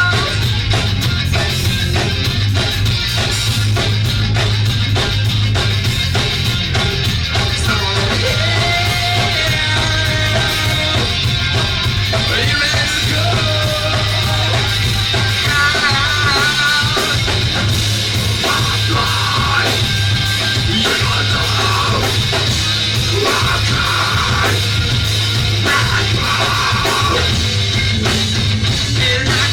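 Rock band playing live, loud and continuous, with a drum kit driving the beat under wavering melody lines.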